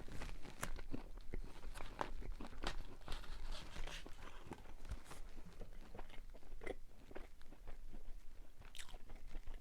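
Close-miked chewing of seasoned french fries, with irregular crunching crackles and small mouth clicks.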